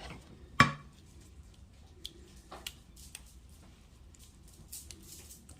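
Sauce being stirred into spaghetti in a casserole dish: faint wet squishing and light clicks of a utensil, with one sharp knock about half a second in.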